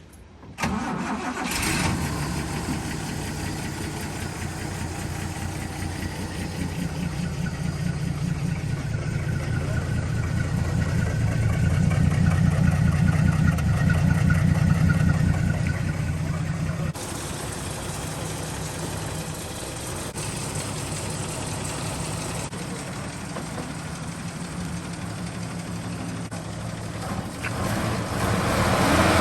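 Toyota FJ45 Land Cruiser's engine running steadily, its note growing louder over several seconds and then settling back.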